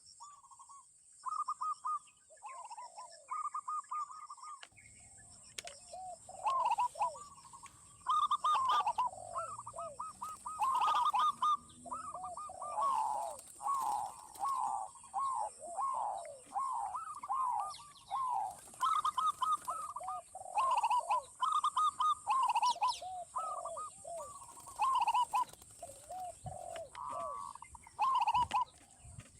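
Several zebra doves and spotted doves cooing over and over, their rippling calls overlapping into a near-continuous chorus after the first few seconds, over a steady faint high hiss.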